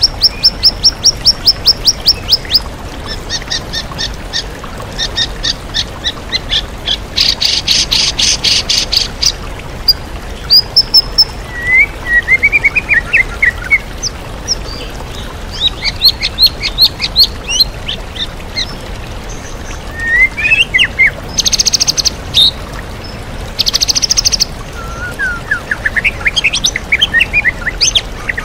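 White-rumped shama singing a varied song: fast series of repeated high notes, a buzzy rattling trill and runs of rising chirps. Underneath is a steady rush of waterfall water.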